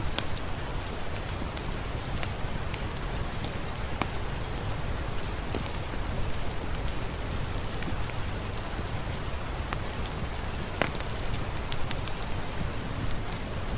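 Steady rain falling, an even hiss with many scattered sharp drop ticks and pops throughout.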